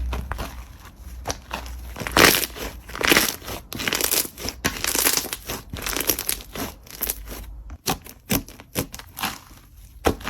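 Slime being squeezed and worked by hand, giving a dense, irregular run of crackles and pops, with a short pause about three-quarters of the way through.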